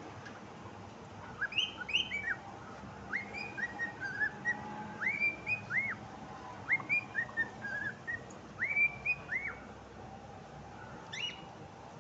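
Cockatiel whistling its song: a run of short, clear whistled notes, many rising or arching in pitch, starting about a second and a half in and going on for about eight seconds, then one more brief call near the end.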